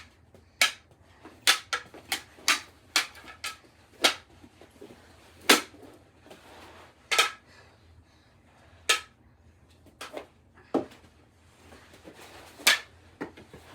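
Plastic mini hockey sticks striking the ball during knee hockey play: a dozen or so sharp clacks at irregular intervals, some in quick runs and some a second or two apart.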